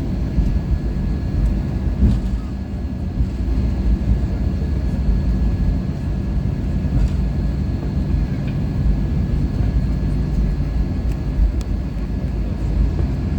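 Steady cabin noise inside a Boeing 737-800 jet airliner: a deep, even rumble of engines and airflow with a faint steady whine over it.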